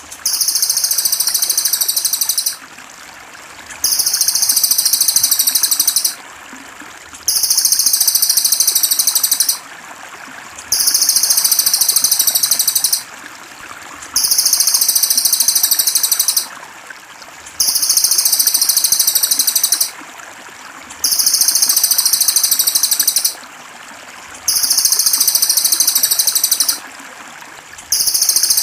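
A cililin songbird's high, rapid trilling song repeats in bursts of about two seconds, one roughly every three and a half seconds, the same phrase looped over and over as a masteran. Water trickles steadily underneath.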